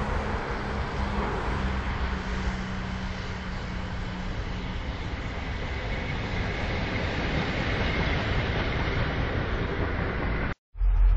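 Pair of EU07-type electric locomotives rolling past on a viaduct: steady rumble of wheels on rail, with a low hum that fades about halfway. Near the end it cuts off suddenly, and a louder deep drone from an M62 diesel locomotive follows.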